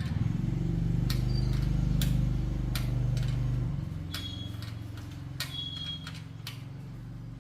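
A low mechanical hum, loudest for the first few seconds and then dropping, with scattered sharp clicks and light metallic ticks over it.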